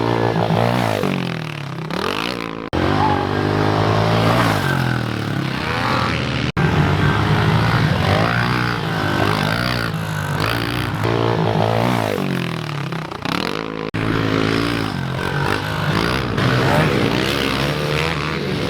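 Small four-stroke pit bike engines revving, their pitch climbing and dropping again and again with the throttle. Three abrupt breaks cut between takes.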